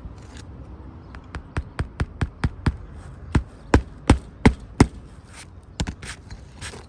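Hand hammer driving roofing nails into asphalt shingles: a run of sharp blows, about three a second, the hardest ones near the middle, then a few lighter taps near the end.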